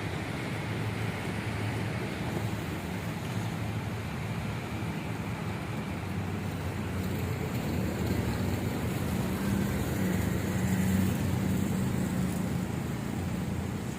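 Passenger train running slowly past: a steady low rumble with a hum that swells about ten seconds in.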